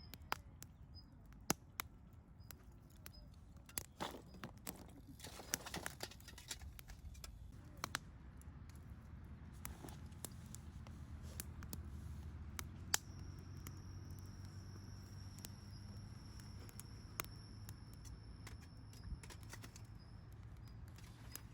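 Wood fire crackling faintly, with sharp pops coming at irregular moments over a low steady hum. A thin, steady high tone comes in about halfway through.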